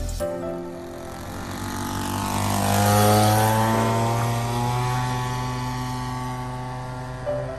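Small two-stroke engine from a pesticide sprayer, running as the power plant of a radio-controlled model plane and flying past. It grows louder to a peak about three seconds in, then its pitch drops as it moves away.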